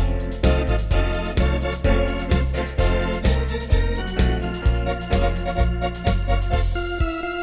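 Wersi Sonic OAX electronic organ playing a medley tune: sustained chords over a steady beat of about two bass notes a second, with drum-machine percussion. Near the end the rhythm briefly drops out before the next phrase.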